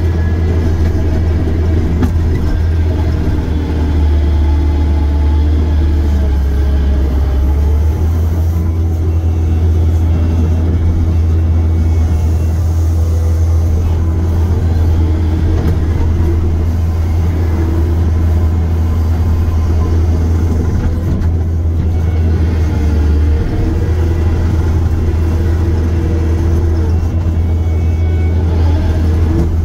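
Diesel engine of a heavy earthmoving machine running loudly and steadily, a deep drone that shifts in tone a few times as the machine works.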